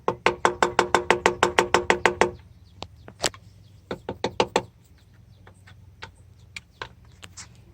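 Rapid metallic striking, about nine blows a second, each ringing with a clear pitch, on a rusted, stuck engine part being shocked loose. The rapid run stops a little over two seconds in and gives way to scattered single knocks.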